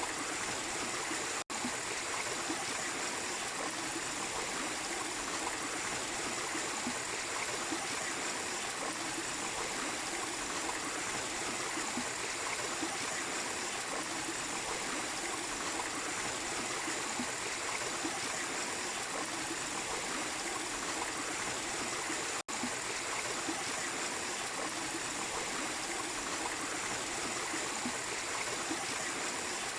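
Small waterfall and stream running steadily, a constant rushing and trickling of water. The sound cuts out for an instant twice, once about a second and a half in and again about twenty-two seconds in.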